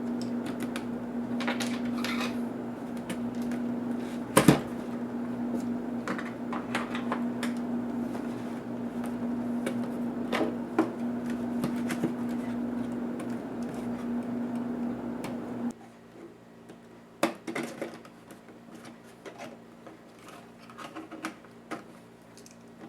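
Scattered small clicks and taps from handling a netbook's parts and tools during disassembly, with one louder click about four seconds in. Under them a steady hum runs and stops abruptly about two-thirds of the way through.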